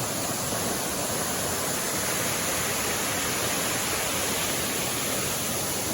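Waterfall about 50 to 60 feet high, its falling water making a steady, even rushing roar that does not change.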